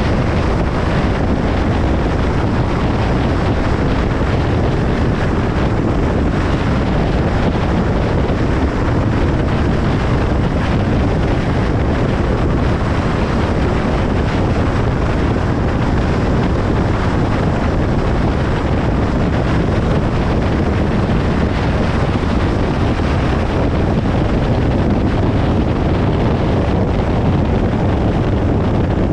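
Steady road noise of a car travelling on a motorway: a constant low rumble of tyres and wind that does not change in level.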